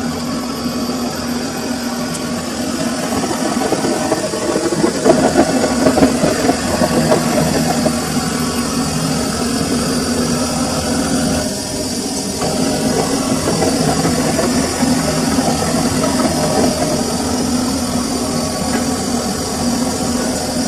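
Samsung washing machine running with a full load: a steady motor hum with the drum's churning noise, which swells louder about four to seven seconds in.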